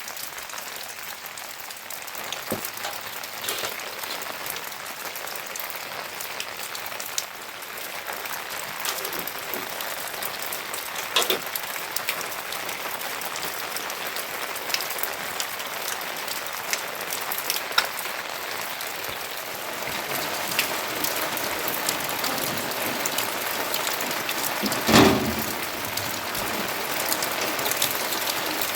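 Steady rain falling, with scattered drops tapping on nearby surfaces. A single loud knock rings out near the end.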